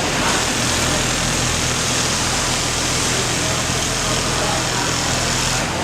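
Automatic pattern sewing machine running steadily with a low motor hum, starting just after the beginning and stopping shortly before the end.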